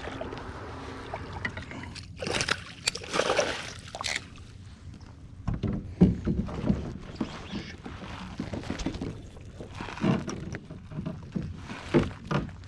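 Water splashing and sloshing against a kayak about two seconds in, then knocks and thumps on the kayak a few seconds later and again near the end, the sharpest one about six seconds in.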